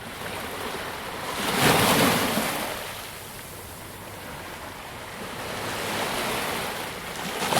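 Sea waves breaking on a beach, one loud crash about two seconds in, then a hissing wash, with the next wave building near the end. Some wind noise on the microphone.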